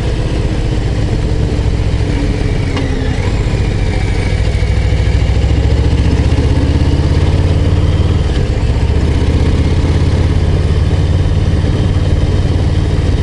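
Harley-Davidson Low Rider ST's Milwaukee-Eight 117 V-twin running under way, heard from the bike while riding. The engine holds a steady, deep note that gets slightly louder about five seconds in.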